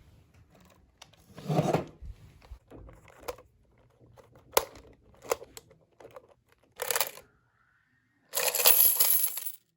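Coins clinking and spilling out of a piggy bank as it is opened, in several separate rattles and clicks. The loudest and longest pour of coins comes near the end.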